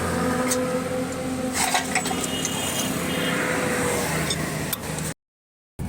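Hyundai Eon's petrol engine idling steadily, with a few light metallic clinks about a couple of seconds in; the sound drops out completely for a moment near the end.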